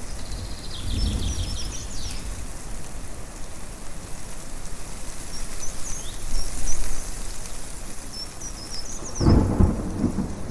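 Thunderstorm ambience: a steady rushing background with thunder rumbling, faintly about a second in and much louder near the end, while small birds chirp in short high calls over the top.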